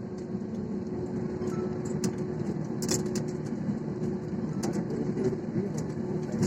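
Steady airliner cabin noise after landing: the hum of the engines and air system with a steady tone, crossed by a few short clicks.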